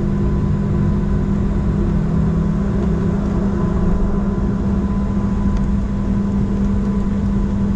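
Steady drone inside a Boeing 737-700's cabin on the ground before takeoff: the jet engines running at idle with the cabin air, a constant low hum and a faint thin whine over it, with no change in power.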